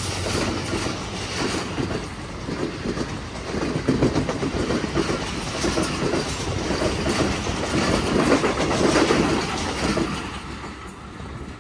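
Express train passing through at speed on the main line, its wheels clicking over the track. The sound fades away over the last second or two as the end of the train goes by.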